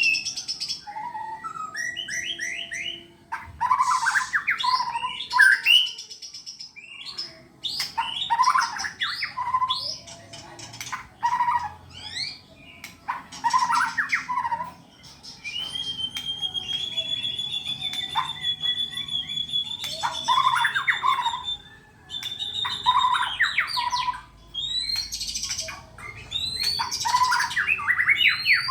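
White-rumped shama (murai batu) singing non-stop in full, varied song (gacor): quick runs of sweeping whistles and chirps, with one long steady whistle held for about six seconds midway.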